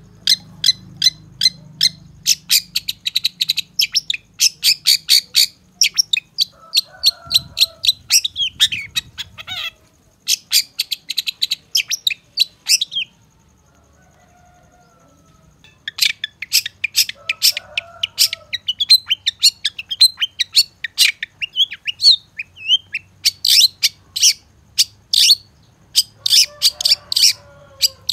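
Long-tailed shrike singing a fast, dense string of sharp chirping notes, broken by a pause of about three seconds midway before it starts again.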